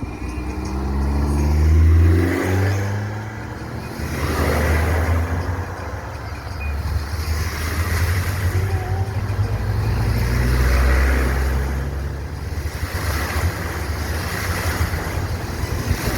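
Car engine revving in low gear, its pitch rising over the first two seconds, then running hard under load as the car pushes through deep floodwater. Swells of rushing, splashing water come and go every few seconds.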